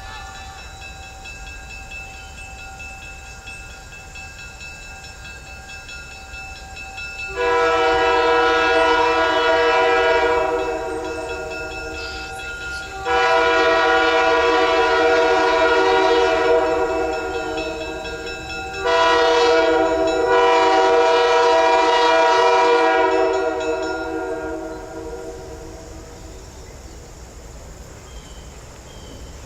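Diesel locomotive horn of CVSR 1822 sounding three long blasts as the train approaches, the last one the longest at about five seconds, then fading.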